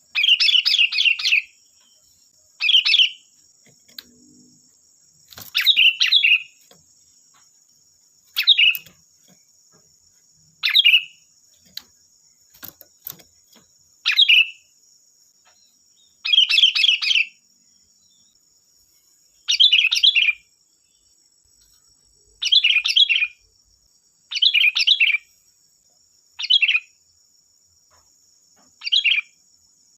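Sooty-headed bulbul (kutilang) singing in short, rapid phrases, about one every two seconds. A faint, steady high-pitched hiss lies behind it.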